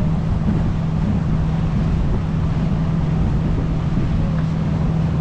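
Sightseeing boat's engine running with a steady low drone, under a constant rush of wind and water.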